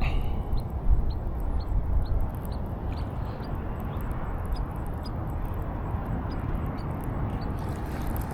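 A small animal's short high chirps repeated about two to three times a second, fading out near the end, over a steady low rumble of wind on the microphone.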